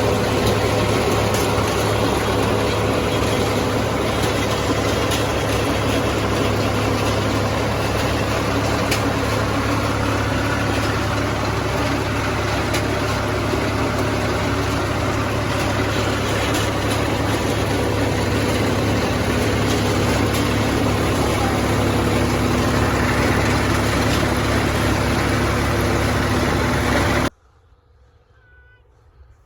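Heavy farm-machine engine running at a steady speed, cutting off abruptly near the end; faint bird chirps follow.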